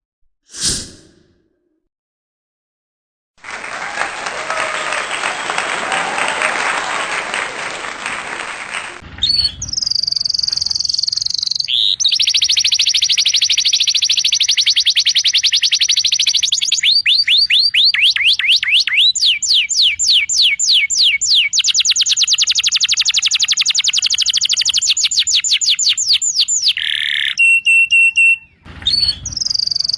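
Domestic canary singing a long song of rapid trills, each phrase a fast run of repeated high notes that changes speed and pitch from one phrase to the next, with a short steady whistled note near the end. It is preceded by about five seconds of loud hiss-like noise.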